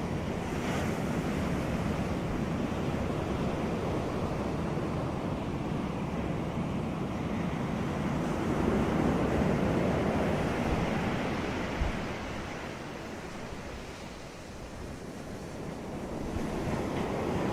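Sea waves washing onto a beach in a continuous surf hiss, swelling about halfway through, easing off after that and building again near the end.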